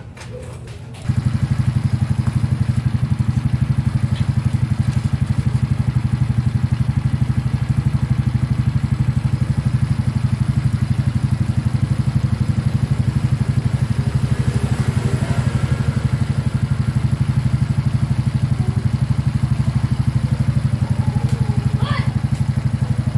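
Suzuki Raider J Fi 115's single-cylinder four-stroke engine catching about a second in and then idling steadily, its valve clearances freshly adjusted.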